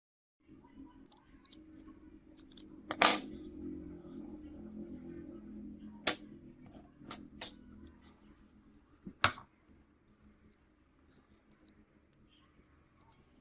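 Small tools and phone parts clicking and tapping on a work surface: a handful of sharp separate clicks, the loudest about three seconds in, over a faint low hum.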